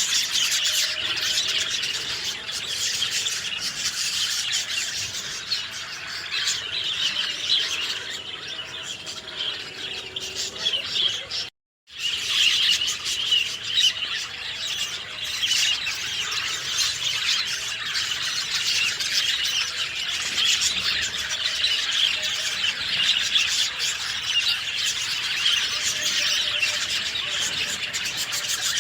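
A chorus of many songbirds chirping and calling together in dense overlapping song, with a brief gap of silence a little under halfway through.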